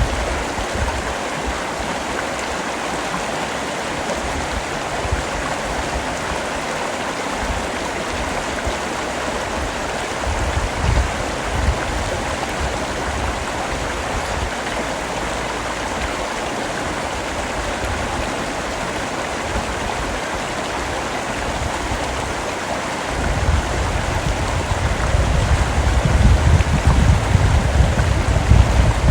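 Steady rain, an even dense hiss. A low rumble swells briefly about eleven seconds in and comes back more strongly after about twenty-three seconds.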